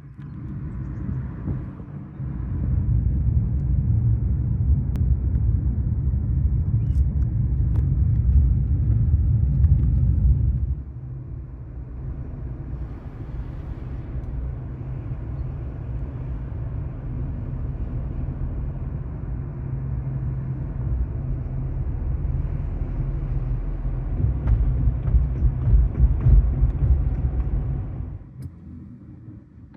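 Low rumble of a car in motion, road and wind noise, louder for the first ten seconds or so and then steadier, dying away near the end.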